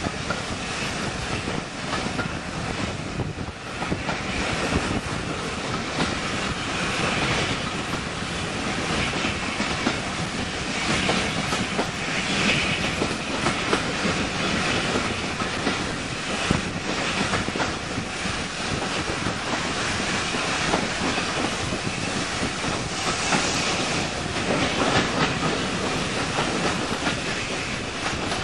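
Steam-hauled passenger train running along the track, its wheels clattering over the rail joints over a steady rumble.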